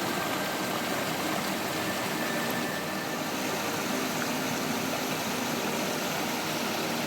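Steady, unbroken rush of water: heavy monsoon rain or runoff water, with no distinct drops or splashes.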